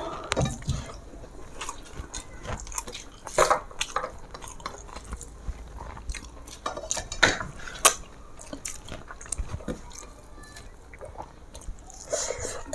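Eating sounds: chewing, with scattered sharp clicks and clinks of dishes, the loudest about three and a half, seven and eight seconds in.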